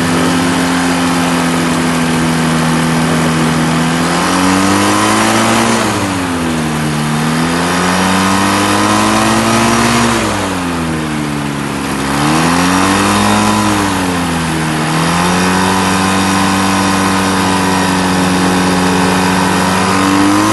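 An engine running steadily. Its pitch sags and climbs back three times, between about five and fifteen seconds in, then holds steady again.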